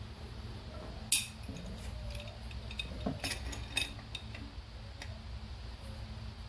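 A few sharp metallic taps and clinks as a tight rear main seal wear ring is worked onto a diesel crankshaft, the loudest about a second in and a cluster around three to four seconds, over a steady low hum.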